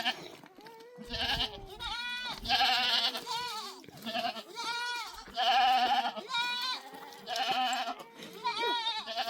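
Goats bleating, about half a dozen wavering calls one after another, some overlapping at different pitches.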